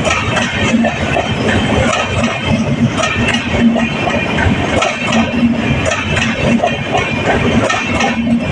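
Express passenger train on the move, its wheels and coaches clattering over the track in a steady run of clicks and knocks.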